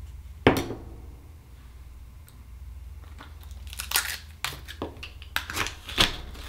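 Akoya oyster being handled and opened: a sharp click about half a second in, then a cluster of crunching, crackling clicks of shell and flesh from about three and a half to six seconds.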